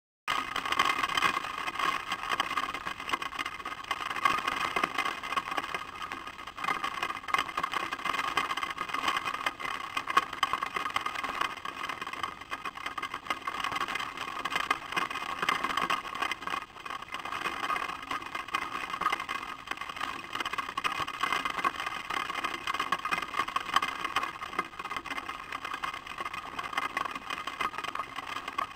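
Rain falling on the nest and the camera's microphone housing, a steady dense crackle and patter with no let-up.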